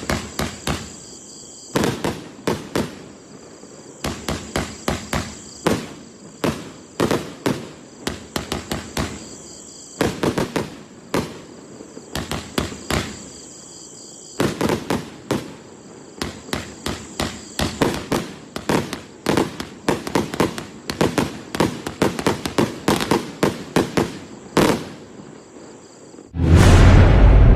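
Bunker Blaster firework firing volleys of sharp firecracker cracks in quick, irregular clusters, some singles and some rapid strings. About a second before the end a loud, deep, sustained boom swells in and is the loudest sound.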